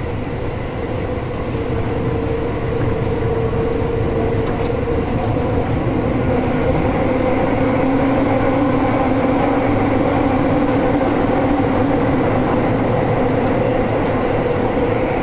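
Tobu 9000 series electric commuter train running, heard from inside the car above the underfloor line breaker. A steady rumble of wheels on rail carries a held motor hum, growing a little louder after about two seconds.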